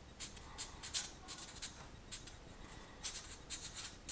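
A pen scratching in short, irregular strokes, writing on a surface.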